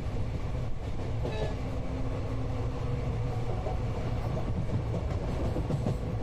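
Indian passenger train running, a steady low rumble heard from inside the coach, with a brief horn toot about a second and a half in.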